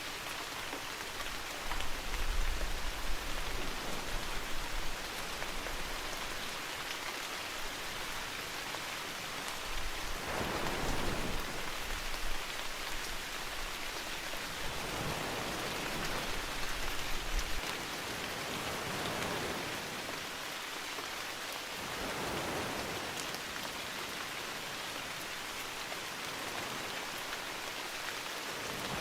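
Steady rainfall with drops pattering, mixed with sea waves washing in as swells of noise every few seconds, and a low rumble now and then.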